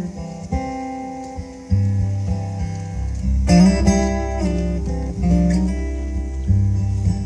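Instrumental break of an acoustic song: strummed acoustic guitar chords over a sustained bass that comes in about two seconds in, with no singing.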